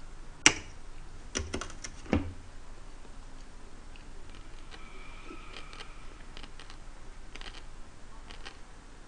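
Open-mouthed chewing with wet lip smacks, deliberately loud, over a mouthful of fried chicken and rice cakes. A few sharp smacks come in the first couple of seconds, the loudest about half a second in, and fainter ones follow.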